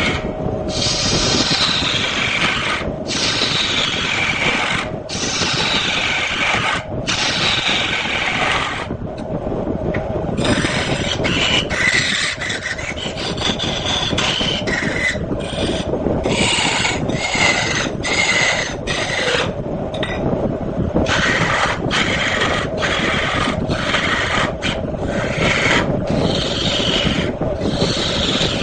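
Turning tool scraping and cutting into wood spinning on a manual wood lathe, in repeated strokes with short breaks between them that come faster later on.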